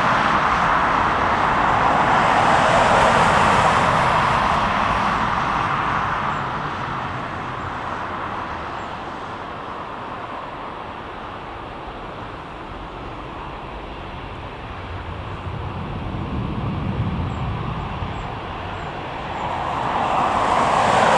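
Jet airliner passing the airfield: a steady engine noise that swells over the first few seconds and slowly fades away, with a smaller swell later on.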